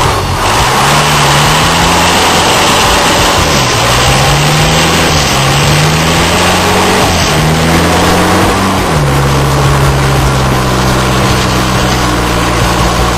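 Willys with a turbo-diesel engine running under load. The engine note climbs, drops back twice, climbs again, then settles to a steady, lower note for the last few seconds.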